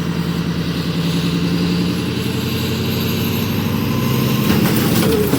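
Compact tractor's diesel engine running steadily, with a few clattering knocks and a shift in engine pitch near the end.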